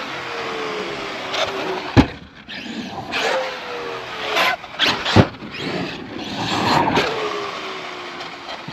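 Large electric RC truck's brushless motor and drivetrain whining three times, each whine falling in pitch as the truck runs and slows, over the rush of its tyres on dirt. Two sharp thuds come about two seconds in and about five seconds in, typical of the truck landing jumps.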